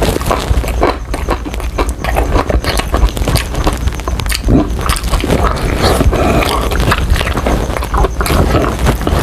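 Close-miked chewing and crunching of crispy fried chicken: a dense, irregular run of crunches and mouth clicks.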